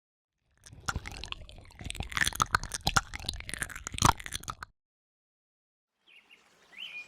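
Close-miked wet mouth sounds, clicking and smacking in a quick irregular run, stopping abruptly after about four seconds. After a short silence, faint outdoor ambience begins with a bird chirping near the end.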